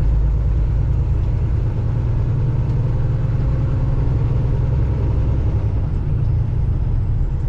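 Semi-truck's diesel engine and road noise heard inside the cab while driving: a steady, loud low rumble.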